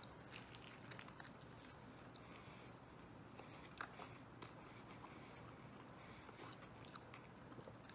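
Faint chewing of a mouthful of deep-dish pizza, with a few soft mouth clicks.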